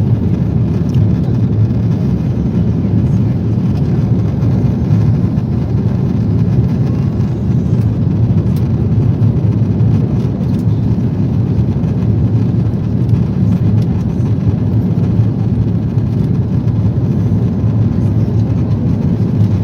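Steady low rumble of cabin noise inside an Airbus A340 in flight, from engine noise and airflow over the fuselage.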